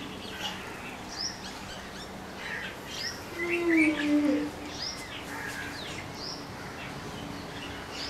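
Birds chirping in short, repeated calls, with one lower, drawn-out falling call about halfway through.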